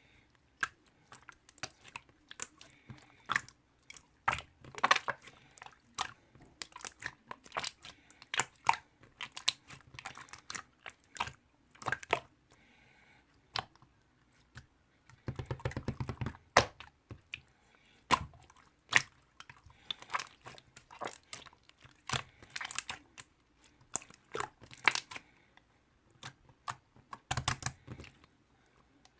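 Slime being squished and pressed by hand: irregular sticky clicks and pops, with a denser run of crackling about halfway through and again near the end.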